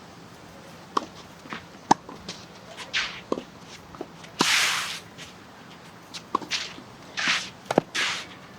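Tennis rally: sharp ball strikes and bounces roughly once a second, with short scuffing footsteps of players moving and sliding on the court between them.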